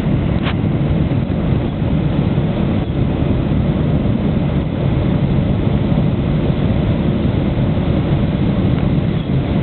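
Steady roar inside the cabin of a Boeing 767-300ER on approach: its engines and the rush of air over the fuselage, low and even, with a faint click about half a second in.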